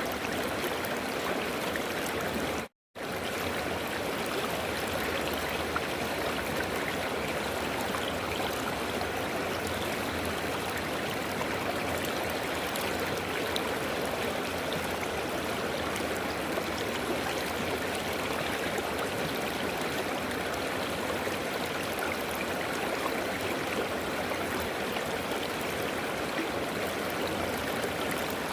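River water rushing and gurgling steadily over rocks, with a brief cut to silence about three seconds in.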